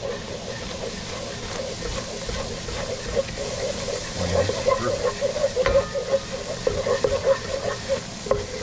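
Flour, butter and oil roux sizzling in a hot pan as it is stirred, with the utensil clicking against the pan a couple of times.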